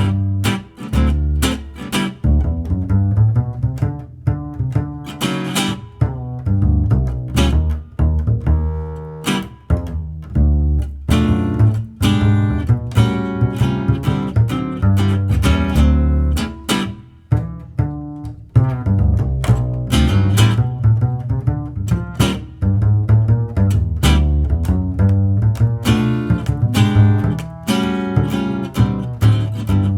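Acoustic swing band playing an instrumental chorus with no vocals: acoustic guitar and double bass, the bass prominent.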